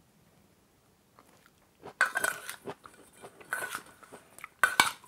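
Someone chewing a mouthful of pomelo salad to taste it: a few short, crunchy, wet chews about a second apart, starting about two seconds in after a near-silent pause.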